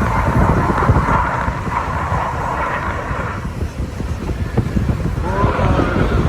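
Heavy wind buffeting the microphone, over a steady rushing noise that cuts off about halfway through.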